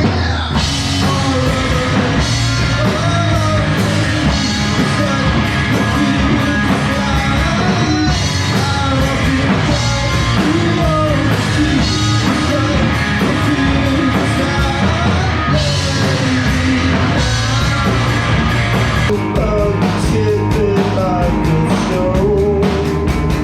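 Rock band playing with electric guitar, drum kit and a singing voice, the cymbals growing busier near the end.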